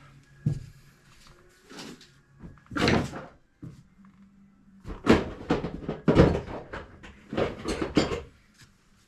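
A string of knocks, clunks and scrapes from tools and parts being handled while fitting a replacement toilet, loudest in a cluster about five to eight seconds in. A faint steady hum comes in about four seconds in.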